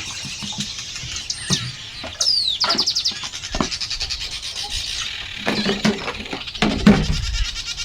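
Birds chirping and calling, with a falling whistle and a quick run of short notes a couple of seconds in. A few knocks and rustles come near the end.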